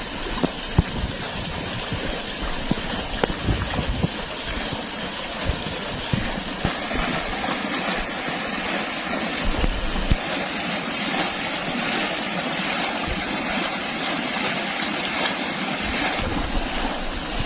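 Rainwater floodwater flowing steadily: a continuous rushing noise, with occasional short low bumps.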